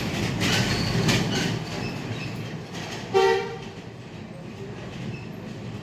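Street traffic noise with clattering knocks, and one short vehicle horn toot about three seconds in.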